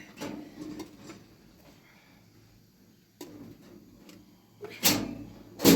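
A few scattered knocks, with two louder bangs close together near the end.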